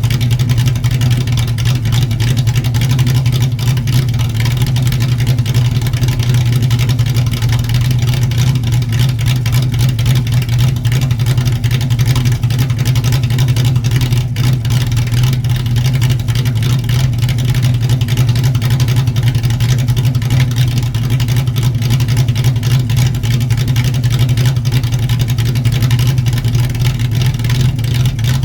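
Cammed 1979 Ford Mustang's 5.0 V8 running at a steady speed through a catless H-pipe dual exhaust with Flowmaster 10 mufflers. It gives a loud, low, even exhaust note with no revving.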